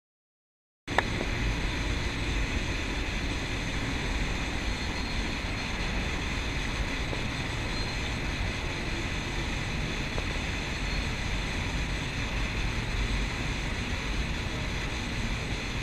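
Polish EU07 electric locomotive hauling a passenger train as it runs slowly into the station, giving a steady rumble. The sound cuts in with a click about a second in.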